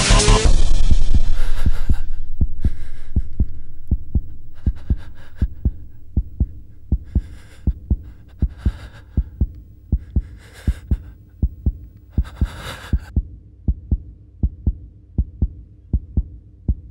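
Heartbeat sound effect in a film soundtrack: low, steady double thumps. A loud sound fades away over the first few seconds, and a few short rushes of noise come between the beats.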